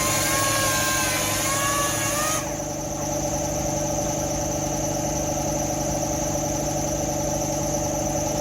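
A steady motor hum runs throughout. For the first two and a half seconds a loud hiss with a wavering whine sits on top of it, then stops suddenly.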